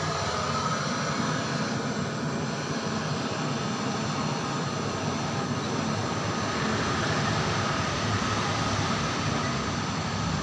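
Gas torch flame burning steadily with an even rushing hiss, used for brazing a refrigerator evaporator.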